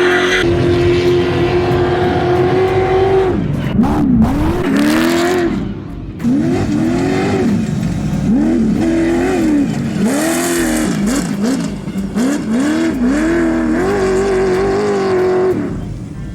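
Off-road race truck engine at high revs: held steady for about three seconds, then revving up and down in repeated swells about once a second, held high again, and cutting off abruptly near the end.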